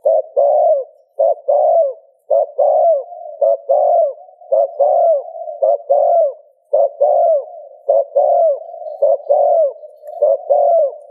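Spotted dove (Streptopelia chinensis) giving its rapid 'gù' display coo. Phrases come over and over at about one a second, each a short note then a longer one that arches and falls away at its end.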